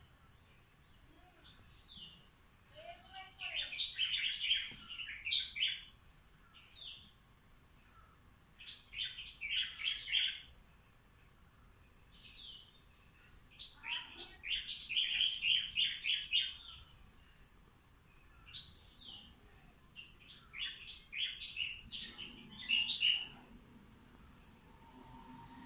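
A songbird singing: four loud phrases of rapid, chattering notes, roughly every five to six seconds, with single short call notes in between.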